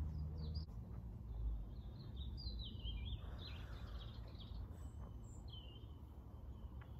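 Small birds chirping in short phrases that rise and fall, over a low steady rumble of outdoor background noise.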